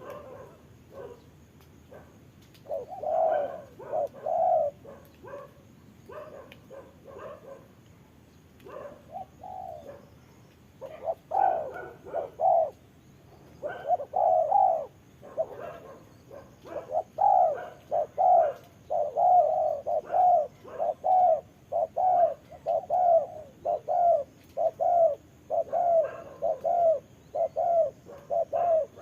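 Spotted doves cooing: short, repeated coo notes, sparse at first, then from about halfway through in a fast steady run of roughly one and a half notes a second.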